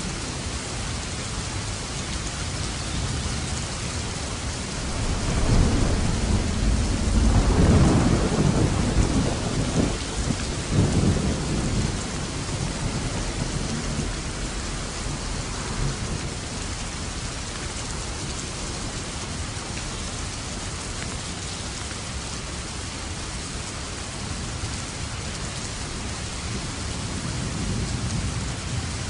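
Steady heavy rain with thunder: a long low rumble builds about five seconds in, peaks around eight seconds and rolls away by about twelve seconds, with a fainter rumble near the end.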